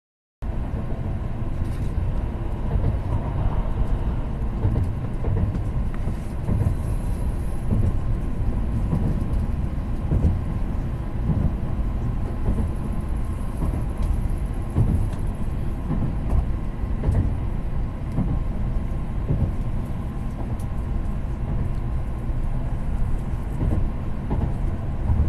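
Steady low rumble inside a Tokaido Shinkansen passenger car, the train running, with a faint steady hum above it.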